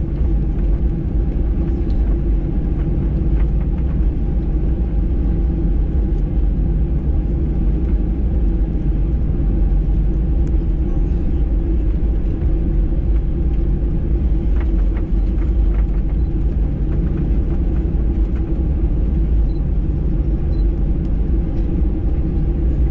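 Steady low rumble inside the cabin of a Boeing 737-800 airliner: the jet engines and the airframe, heard from a passenger seat, with a few constant low hums under an even roar.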